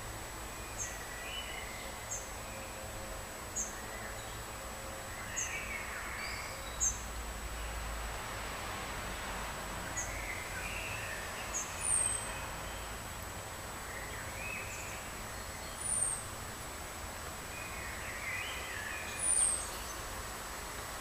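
Wild birds singing over a steady outdoor hiss: short high chirps repeated about every second and a half, several warbled song phrases, and, in the second half, three louder, sharp, high falling calls about four seconds apart.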